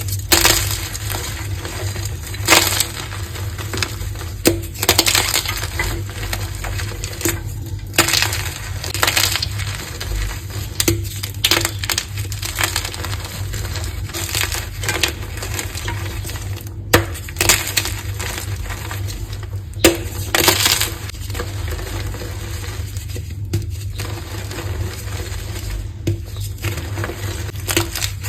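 Green-dyed gym chalk marbles being crushed, crumbling in squeaky, gritty crunches at irregular intervals, over a steady low hum.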